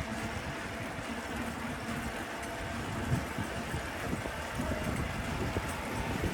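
Street traffic: a motor vehicle's engine running nearby, a steady low rumble with a faint hum.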